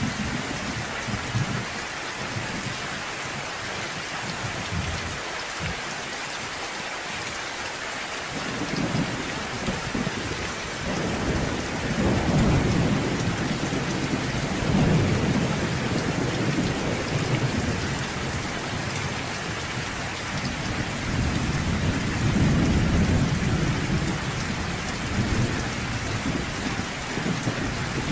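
Steady rain falling, with long rolls of distant thunder rumbling low beneath it, swelling about a third of the way in and again near the middle and later on.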